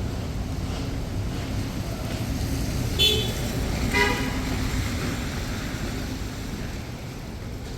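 Two short car horn honks about a second apart, over a steady low rumble of traffic.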